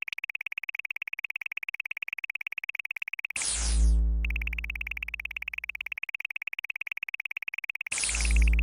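Synthesized game sound effects: a rapid, even pulsing high chirp, about ten pulses a second, broken twice by a loud, deep electronic boom with a falling whoosh, about three and a half seconds in and near the end.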